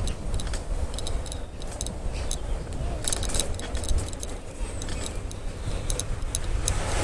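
Bicycle on the move: a steady low wind rumble on the microphone with irregular light metallic rattles and clicks, in short clusters.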